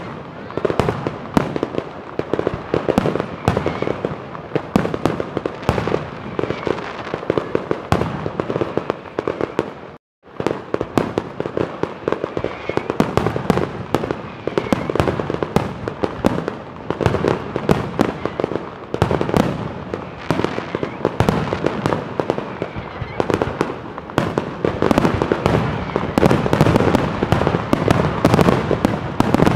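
Professional fireworks display: a rapid, continuous barrage of aerial shell bursts, bangs overlapping almost without a gap and getting busier toward the end. The sound drops out completely for a moment about ten seconds in.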